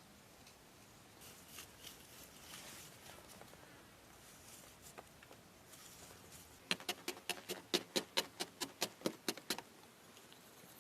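Faint scratching and rustling, then a quick, even run of about a dozen sharp taps, four or five a second, that stops shortly before the end.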